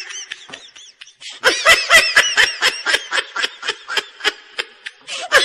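High-pitched, rhythmic laughter in a quick run of 'ha' pulses, about five a second. It starts faintly and grows loud about a second and a half in.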